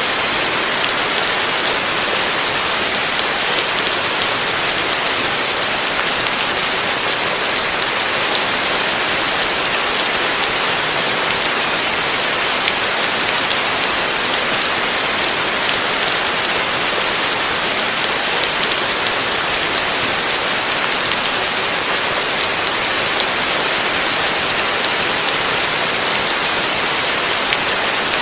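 Heavy rain falling steadily on a roof, a dense even hiss with many fine drop patters.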